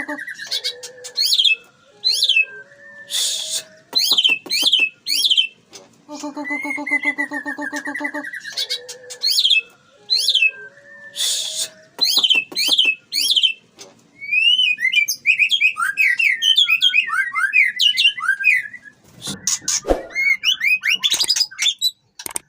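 White-rumped shamas singing: loud, varied whistled phrases of quick down-slurred notes and a buzzy churring note, with a fast jumbled run of chirps in the second half.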